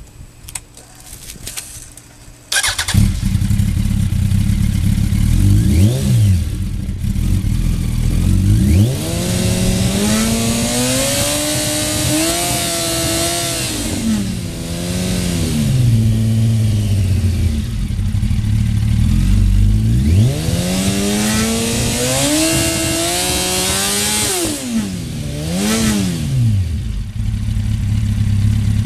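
2005 Yamaha YZF-R1's inline-four, warmed up and running through a Graves full race exhaust, comes in abruptly about three seconds in and idles. It is blipped, then revved twice in long pulls that climb in pitch and fall back to idle, with another quick blip near the end.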